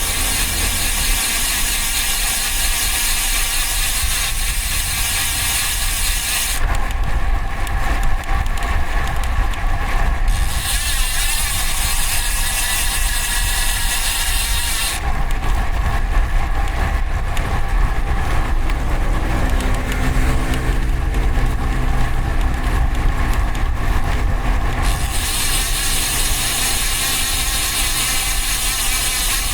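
Riding noise from a road bike with DT Swiss ARC 1100 wheels: steady wind rumble on the mic and tyre and road noise. In stretches a high freehub ratchet buzz sets in while coasting and stops again when pedalling resumes. A motor vehicle's engine hum passes near the middle.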